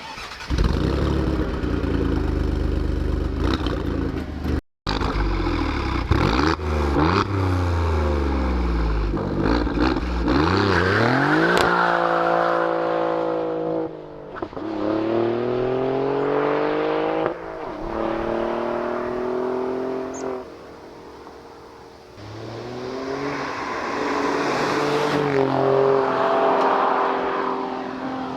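Alfa Romeo Giulia Quadrifoglio's 2.9-litre twin-turbo V6 under hard acceleration. Its pitch climbs through several gears and falls back at each shift, and after about 20 s it eases off briefly before climbing again. The sound cuts out for a moment just before 5 s.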